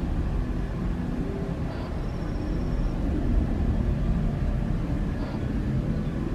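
Jet airliner engines making a steady low rumble, heard from the ground, with a faint high tone for about a second from two seconds in.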